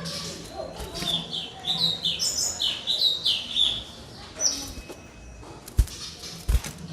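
White-rumped shama (murai batu) singing a fast run of varied whistled and chattering notes that stops about two-thirds of the way in, followed by two low thumps near the end. A faint steady low hum runs underneath.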